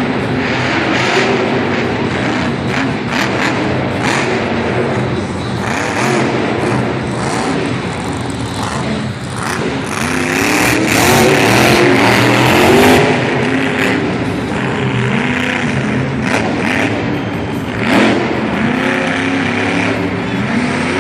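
Monster truck engines revving hard over and over, the pitch climbing and falling, loudest about halfway through.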